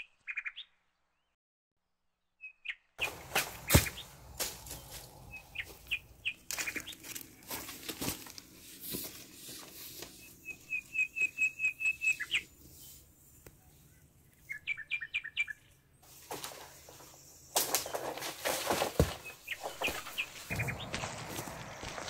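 Small birds chirping in short runs of quick, high, evenly spaced notes, one run of about eight notes. Near the end, rustling and crackling of dry leaves and palm fronds underfoot.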